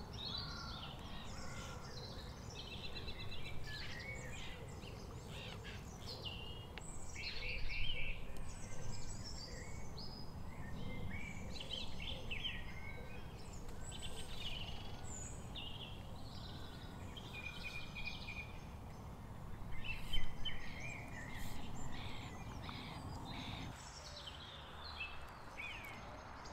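Several small birds singing and calling, with many short chirps and trills, over a steady low outdoor rumble.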